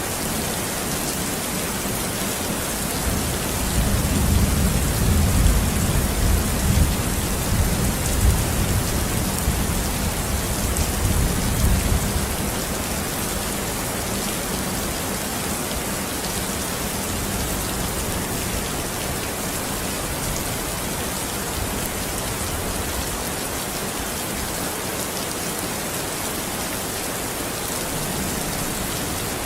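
Steady rain hissing, with a low rumble of distant thunder that swells a few seconds in, lasts about eight seconds and fades.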